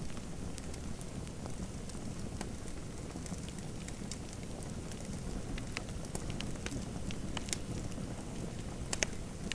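Fireplace fire crackling: a steady low rush with scattered small sharp pops, and a louder pop near the end.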